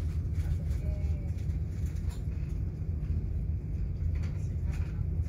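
Steady low rumble of a moving passenger train heard from inside the carriage, with a few faint clicks over it.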